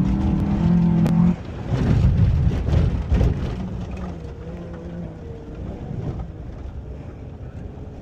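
2005 Honda Element's four-cylinder engine held at steady revs, then cutting back sharply about a second in. A couple of seconds of rough, crackling noise follow, and the engine then runs on more quietly with a wavering note.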